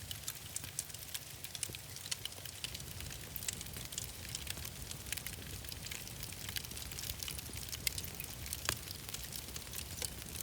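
Wood fire crackling, with irregular sharp pops and snaps over a low, steady rumble of flames.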